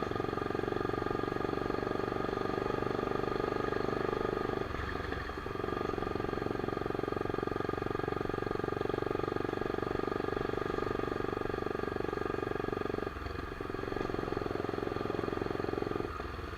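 Honda CBX 250 Twister's single-cylinder engine running steadily under way through a straight-pipe exhaust, easing off briefly about five seconds in, about thirteen seconds in and just before the end.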